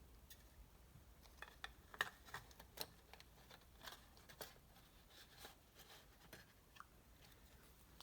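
Faint, scattered small clicks and light metallic taps of a piston and its ring compressor being handled and fitted around the piston rings, strongest about two to three seconds in.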